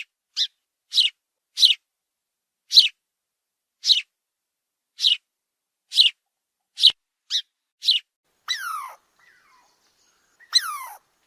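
A small animal's short, high-pitched calls, about a dozen, each falling quickly in pitch, followed by two longer calls that slide downward.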